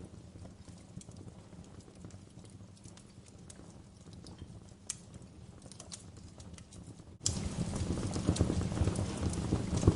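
Wood log fire crackling in a fireplace, with scattered sharp pops and snaps. About seven seconds in, the sound turns suddenly louder, with much denser crackling.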